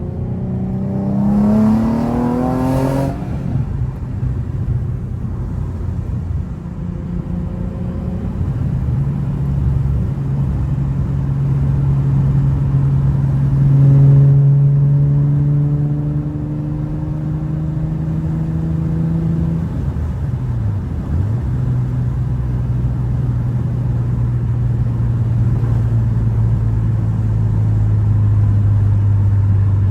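Car engine pulling hard through the gears: the pitch climbs quickly over the first few seconds to a shift, then settles into cruising. Later comes a slower climb that ends in another shift, and then steady running under road noise.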